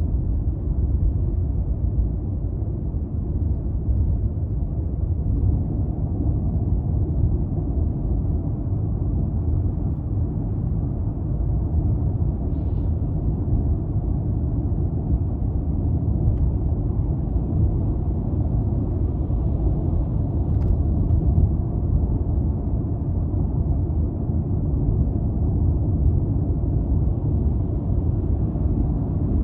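200-series Toyota Crown Athlete cruising at a steady speed: a low, even rumble of tyre and road noise mixed with its 2.5-litre V6 engine, with no rise or fall in revs.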